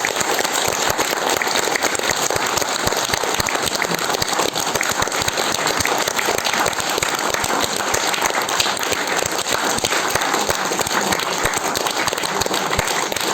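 Theatre audience applauding steadily: many hands clapping at once, a dense continuous patter of claps.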